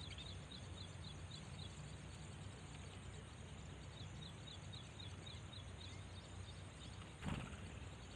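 Small birds chirping in runs of short, high chirps, about three a second, with a pause of a few seconds between runs, over a faint steady hum. A single thump a little after seven seconds is the loudest sound.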